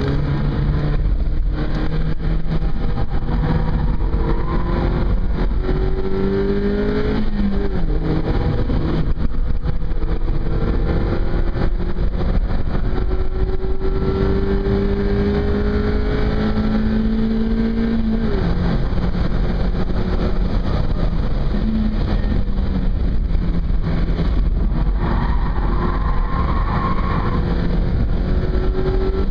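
Mazda MX-5's four-cylinder engine pulling hard on track, heard from inside the cabin over steady wind and road noise. The revs climb for several seconds at a time and drop sharply twice, about 7 and 18 seconds in.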